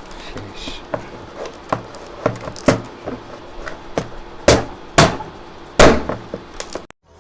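Used plastic engine oil bottle being struck over and over to punch holes in it: an irregular series of sharp knocks, the loudest few in the second half, cutting off suddenly near the end.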